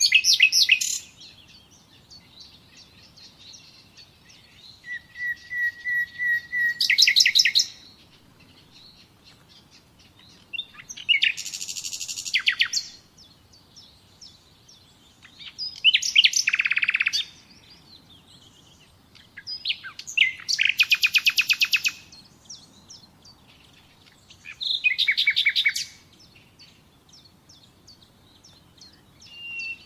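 A songbird singing short, rapid trilled phrases, each lasting a second or two, repeated about every four to five seconds with quiet gaps between.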